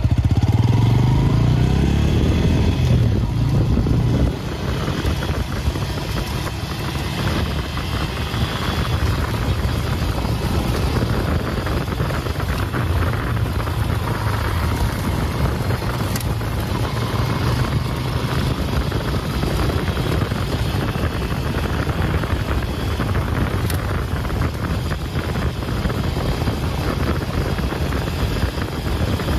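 Bajaj Pulsar N160 motorcycle's single-cylinder engine running while being ridden, with road and wind noise. Louder for the first four seconds, then drops and settles into a steady ride.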